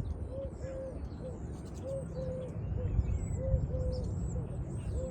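A dove cooing over and over in short and long low notes, with small birds chirping faintly in the background.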